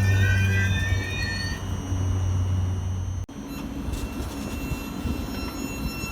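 Train at a station platform: a steady low hum with a rising, stepped whine as it pulls away. About halfway through, the sound cuts abruptly to the steady rumble of another train.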